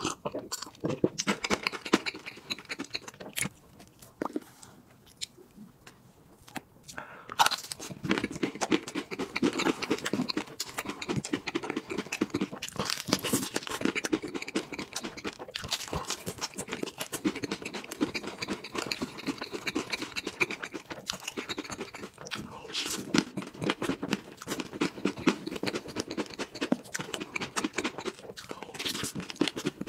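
Close-miked eating sounds: wet chewing, lip smacking and mouth clicks on chocolate and soft whipped cream, dense and irregular. There is a quieter pause about four to seven seconds in.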